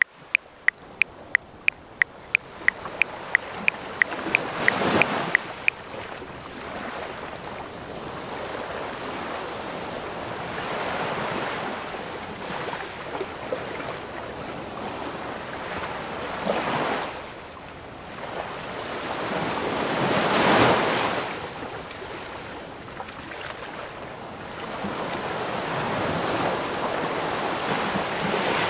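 Sea waves washing onto the shore in several slow swells, with wind on the microphone. A metronome ticking three times a second (180 beats a minute) fades out about five seconds in as the surf comes up.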